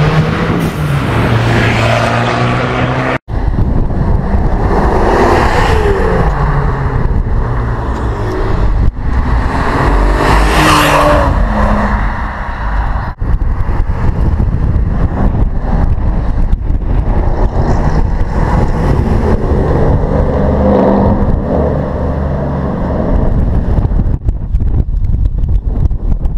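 Several cars in turn accelerating hard away, engines revving up with rising pitch through the gears, in short clips cut one after another.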